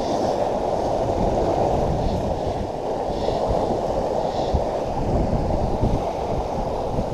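Wind buffeting the microphone over the wash of the sea against the rocks: a steady rumbling noise with no break.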